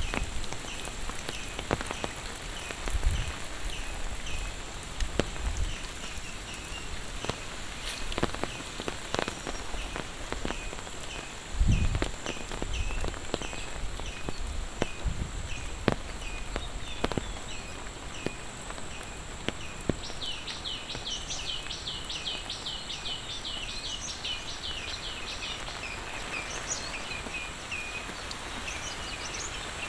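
Monsoon rain falling steadily, with scattered drops striking nearby surfaces. A short high chirp repeats about twice a second throughout, and a rapid run of high chirps comes in about twenty seconds in and lasts some five seconds. A few soft low thumps are heard near the start and around twelve seconds in.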